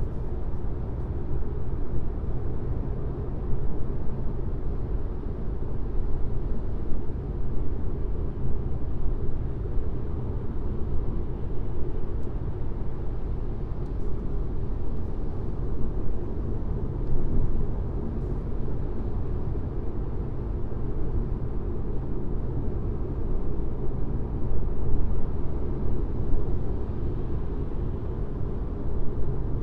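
Car driving along a highway: a steady drone of road and tyre noise, strongest in the low range, with small swells in loudness.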